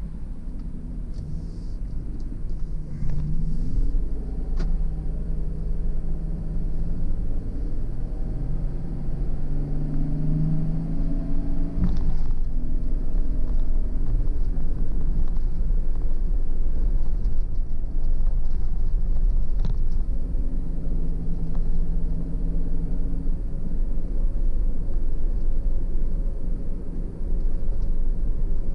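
A car driving on the road: steady low road rumble with an engine hum whose pitch rises and shifts as the car gets under way. It grows louder over the first few seconds, and a few light clicks sound through it.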